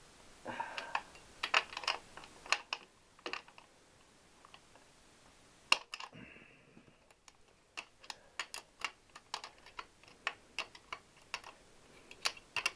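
Metal spanner clicking and tapping on the cylinder-head nuts and studs of a Triumph Bonneville T120 650 twin as the nuts are worked tight. The clicks come irregularly at first, then in a run of about two to three a second in the second half.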